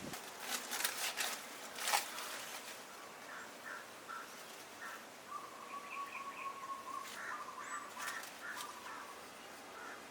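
Small birds chirping in short, repeated notes, with one longer held note near the middle. A few sharp clicks or rustles come in the first two seconds.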